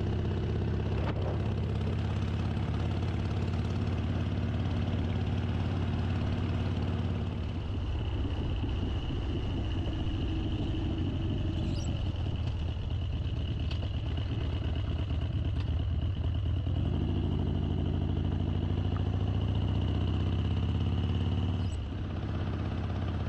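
Harley-Davidson V-twin motorcycle engine running under way. The engine note changes about a third of the way in and again past two-thirds.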